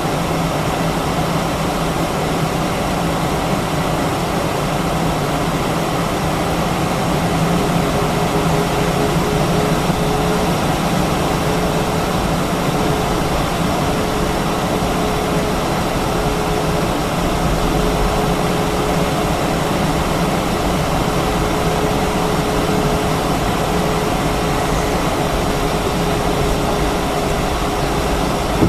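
Steady cabin noise inside an Airbus A319-132 with its IAE V2500 turbofans running at low power, a constant hum and rush of air. A steady mid-pitched tone joins the hum about eight seconds in.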